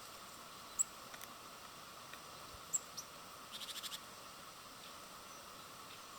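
Birds calling: two sharp, high chirps about two seconds apart, then a quick run of about eight short notes just past the middle, over a steady faint hiss.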